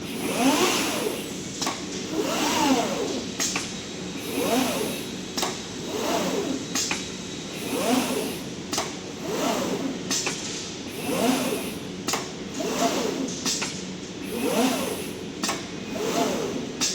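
CNC glass cutting machine's drive motors whining up and down in pitch over and over, a rise and fall about every one and a half to two seconds as the cutting head speeds up and slows down. Short sharp clicks fall between the sweeps.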